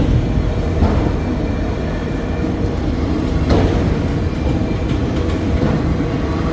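Freight cars of a CSX manifest train rolling slowly past: a steady, loud rumble of wheels on rail with a couple of brief clanks.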